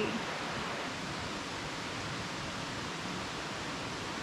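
Steady, even rushing hiss of wet rainforest ambience, with no distinct events.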